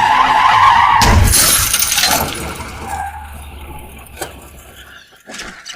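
Film car crash: a short high screech, then a heavy impact about a second in with glass shattering for a second or so. The noise dies away over a low steady hum, which cuts off near the end.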